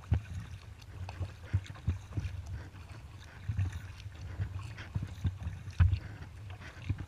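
Kayak being paddled: water splashing and lapping against the hull, with irregular low thumps.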